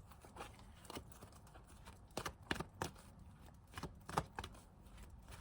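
Tarot cards being handled and shuffled: faint, irregular clicks and taps of card stock.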